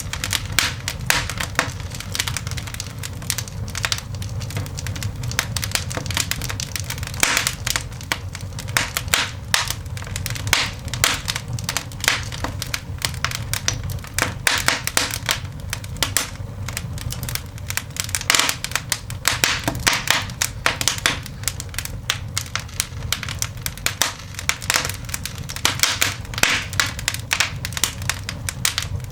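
Newly lit fire in a cast iron dog grate crackling and popping, with many irregular sharp snaps over a steady low rumble.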